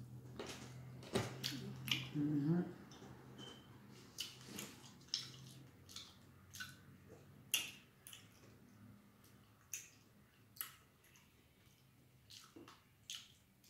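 A person chewing a mouthful of sandwich up close, with wet mouth smacks and sharp clicks every second or so and a low 'mm' hum in the first few seconds.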